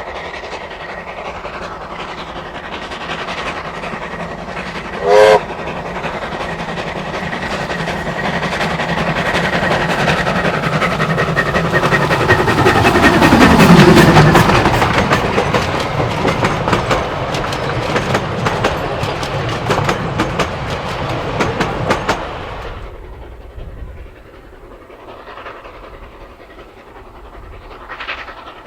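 Steam train hauled by New Zealand Railways Ww class 4-6-4T tank locomotive No. 480 passing: a short, loud whistle toot about five seconds in, then the train's sound builds to a peak with a falling pitch as it goes by, with fast clickety-clack of wheels over rail joints, and drops off sharply about twenty-two seconds in.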